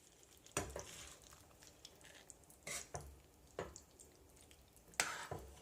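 Spoon stirring chicken pieces in watery gravy in a cooking pan: four short, separate stirring strokes with the liquid splashing.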